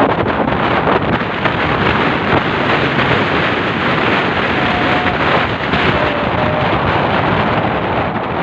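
Steady wind rush buffeting the microphone on a moving motorcycle, a dense loud roar with no break.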